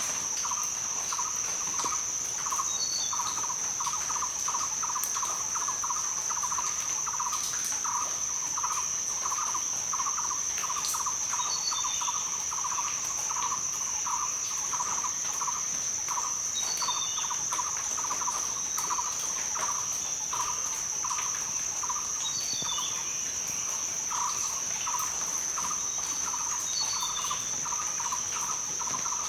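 Rainforest insect chorus: a steady high-pitched drone with a lower pulsing call repeating a few times a second. A short bird chirp breaks in every four to six seconds.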